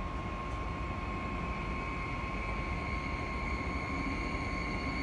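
Electric train at a station: a steady low rumble under a steady high-pitched whine.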